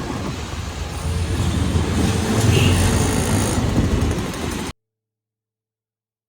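Road traffic with a motor vehicle engine running steadily, growing louder around the middle, then cut off abruptly about three-quarters of the way through.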